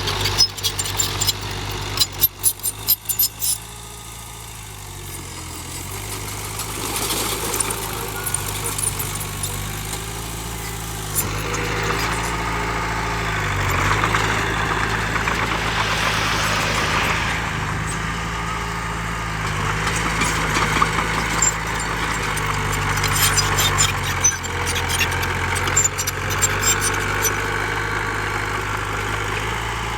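Heavy diesel earth-moving machinery running steadily, with the engine note swelling for several seconds mid-way, and sharp clanks and rattles near the start and again near the end.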